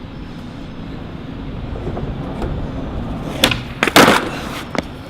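Skateboard wheels rolling on wet pavement, the rolling growing louder. About three and a half seconds in comes a sharp crack from the board, then a louder clattering impact just after, and a last short knock near the end.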